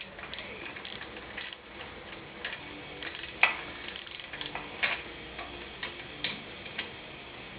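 Socket ratchet clicking in uneven strokes while bolts on a motorcycle exhaust silencer are run partway down, with a few sharper clicks and knocks scattered through.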